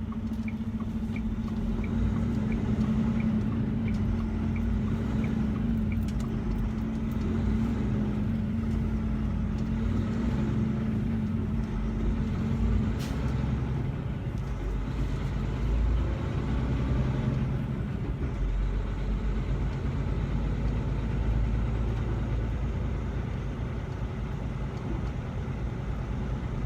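Inside a semi-truck's cab while driving: the diesel engine and road noise drone steadily. A steady hum drops away about halfway through, and there is light ticking, about two a second, in the first few seconds.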